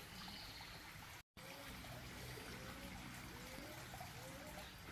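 Faint, steady trickle of a small garden waterfall running into a pond, with a short gap about a second in where the sound cuts out completely.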